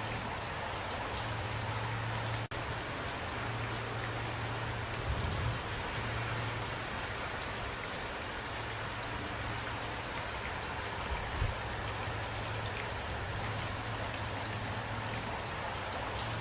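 Steady rain falling, with individual raindrops ticking over a constant hiss and a steady low hum underneath. It cuts out for an instant about two and a half seconds in.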